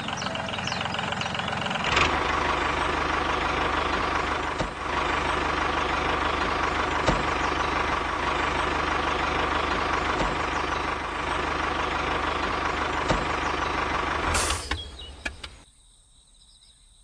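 A small motor running steadily with a constant high whine over a low hum, starting about two seconds in and cutting off near the end.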